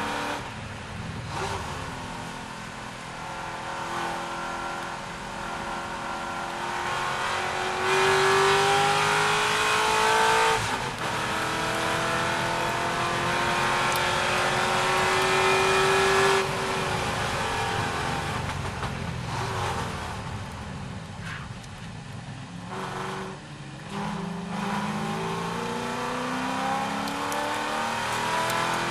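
C6 Corvette's V8 racing engine under hard acceleration, its pitch climbing and dropping back at gear changes, loudest a third of the way in. Past the middle it falls away as the car lifts off, then it climbs again near the end.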